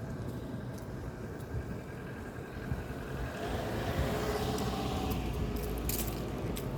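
A road vehicle passing by, its noise swelling about halfway through and then easing off, with a few sharp clicks near the end.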